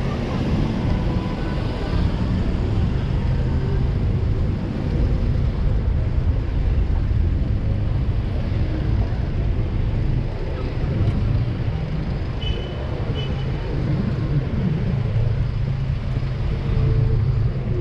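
City street traffic rumbling steadily, heard from a bicycle on the road. A brief high beep sounds twice about twelve seconds in.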